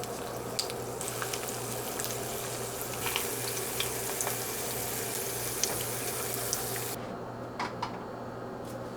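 Kitchen tap running into a sink with small clinks and taps, then turned off about seven seconds in, followed by a couple of light knocks.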